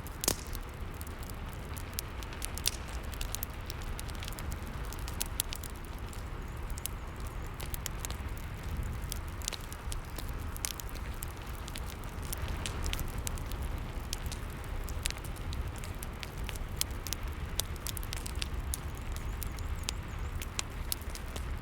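Fireplace crackling, with frequent irregular sharp pops, over a steady hiss of rain.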